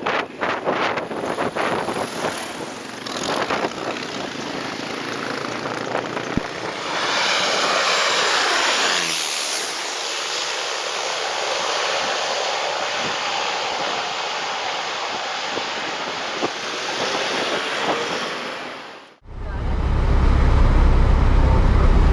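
An aircraft flying low overhead on its landing approach. Its engine noise swells, then drops in pitch as it passes, with wind buffeting the microphone at first. Near the end there is an abrupt cut to a loud, steady, low rumble.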